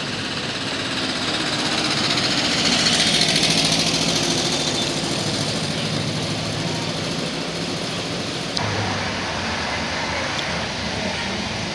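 Classic cars' engines running as they drive slowly past, loudest about three seconds in as one passes close. An abrupt change about eight and a half seconds in to another car's engine idling close by.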